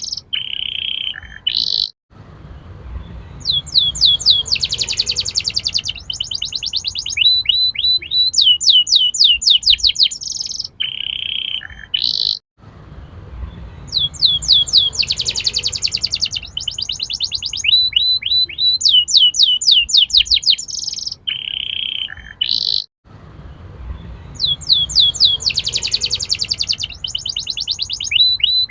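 Canary singing fast trills and rolling runs of repeated high notes. The same phrases recur about every ten and a half seconds, each time after a brief drop-out, as a looped recording of a strong-singing canary used as a song lure for young canaries.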